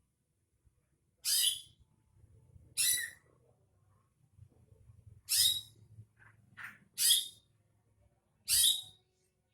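Cucak ijo (green leafbird) song played as a lure: a series of about seven short, loud, high-pitched whistled notes with sweeping pitch, spaced irregularly with short gaps between them.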